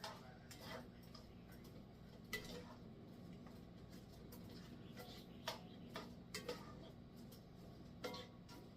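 Faint, scattered clinks and taps of a kitchen utensil against a pan and a jar, about nine light knocks spread unevenly, over a low steady hum.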